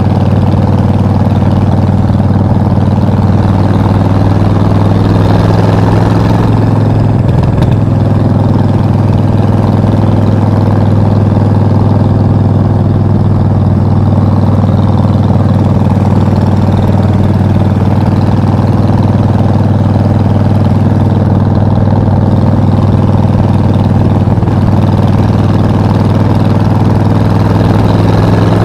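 Suzuki VS 1400 Intruder's 1360 cc V-twin running steadily at low, even revs, with a brief change in pitch about seven seconds in.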